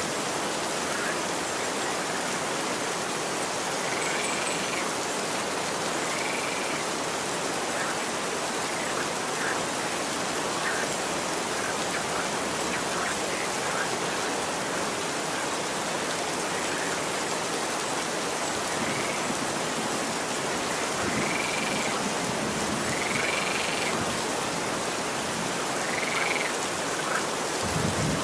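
Steady rain falling, an even hiss, with a few short, high chirping calls breaking through it now and then.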